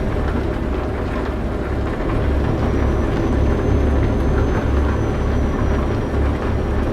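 Heavy truck running: a steady low drone with an uneven, pulsing rumble under a haze of noise, and a faint high whine.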